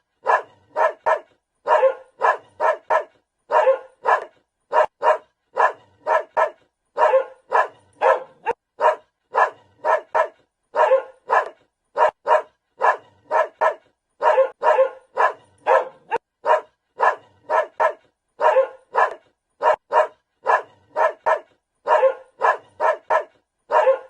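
A dog barking over and over, short sharp barks in quick groups of three or four, about two to three barks a second.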